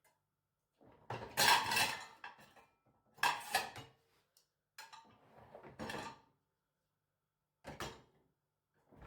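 Kitchen clatter: things handled with a drawer-or-dish kind of knock and rattle, in four short bursts of about a second each with quiet between them.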